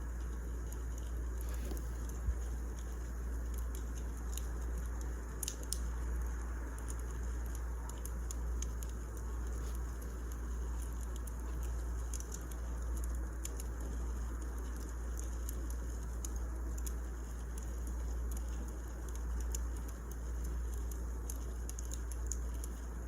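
Wood fire crackling in a fireplace: irregular sharp crackles and pops over a steady low rumble.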